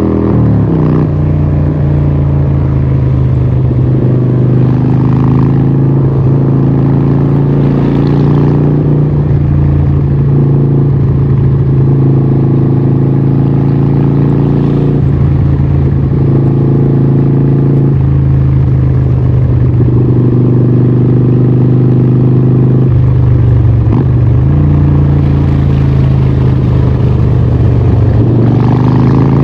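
Harley-Davidson 1200 Nightster's Evolution V-twin running through a Vance & Hines exhaust, held at a fairly steady engine speed. The pitch drops just after the start, dips briefly again later, and begins to rise near the end.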